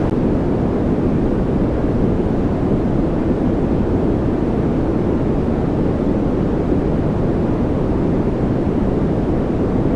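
Steady noise for focus or relaxation: an even, unchanging rush, deep rather than hissy, with most of its weight low and little at the top.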